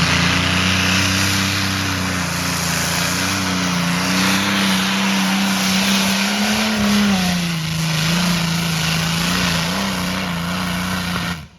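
Competition pulling tractor's engine held at high revs under load during a pull, the pitch wavering slightly up and down. It cuts off abruptly near the end.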